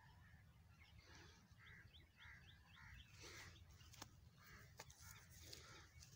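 Faint birds chirping and calling, with a quick run of short rising chirps about two seconds in. Two sharp clicks follow around four seconds in, over a low steady rumble.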